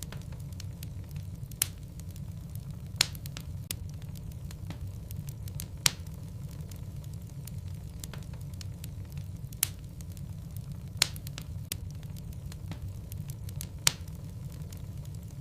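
Logs burning in a fireplace: a steady low rumble of flame, with crackling and about half a dozen sharp pops at irregular intervals.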